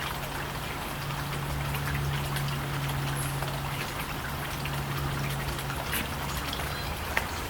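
A steady low electrical or mechanical hum under an even hiss, with a few faint small clicks.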